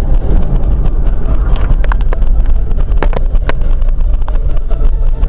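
Car driving, heard through a dashcam: a loud, steady low rumble of road and engine noise, with a few sharp knocks in the middle. The sound cuts off suddenly at the end.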